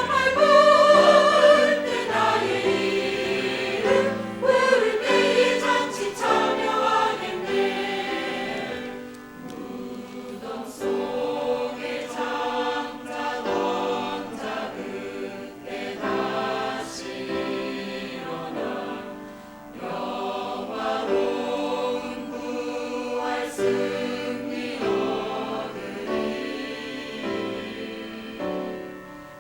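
A tenor singing a hymn with wide vibrato, set in a fuller choral texture; notes are sustained and phrases swell and fall.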